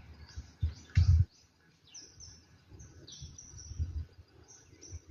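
Birds chirping in short, high, repeated calls. A loud low thump about a second in, with lighter low rumbles through the rest.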